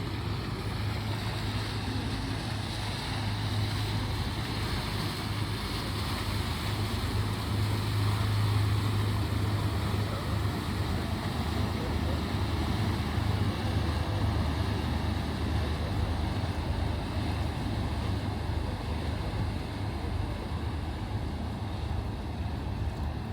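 Outdoor street ambience: a steady low drone like a running engine, under a murmur of voices.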